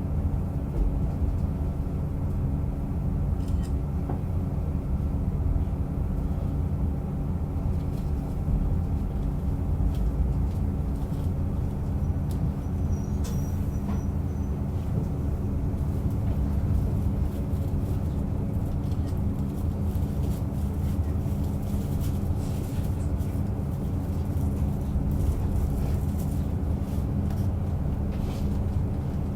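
Diesel railcar's engine drone heard from inside the car: a steady, even hum with a constant pitch and a few faint clicks and rattles.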